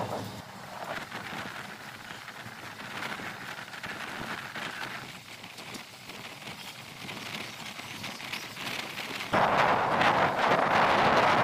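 Moving train heard from an open window: a steady rushing noise of the running train and wind, which turns sharply louder about nine seconds in.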